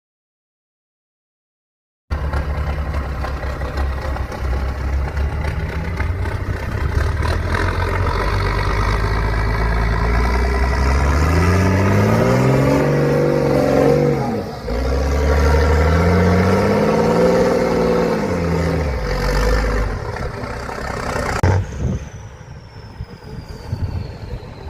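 Truck engine working hard off-road, twice revving up and falling back in pitch. Silent for about the first two seconds, and it drops to quieter running near the end.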